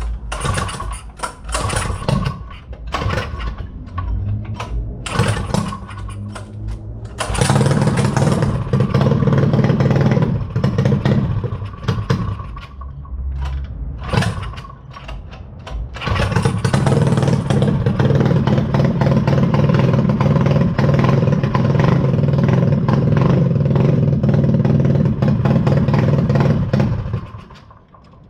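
Mini dirt bike's small engine warming up: it runs unevenly in short bursts at first, then is held at high revs twice for several seconds each, with a lull between, and drops away sharply near the end.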